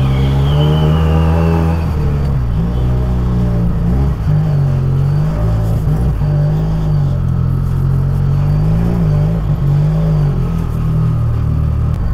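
Benelli 302S motorcycle's parallel-twin engine running under way, its pitch dipping and climbing again a few times with throttle and gear changes.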